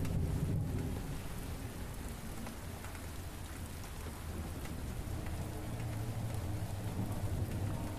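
Steady rain falling, with a low rumble of distant thunder underneath that eases a little midway and builds again toward the end.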